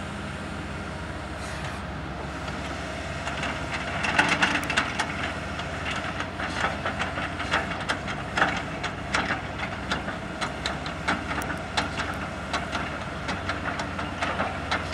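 Bulldozer engine running steadily under load, with a fast run of clanks and rattles starting about four seconds in.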